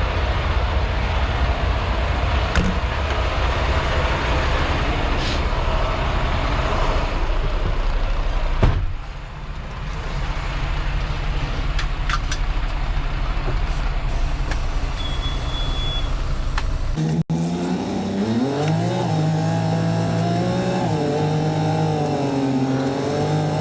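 Semi truck driving, heard inside the cab: a steady low drone of engine and road noise with one knock about nine seconds in. Near the end it cuts to the diesel engine rising in pitch as the truck accelerates, then holding and wavering.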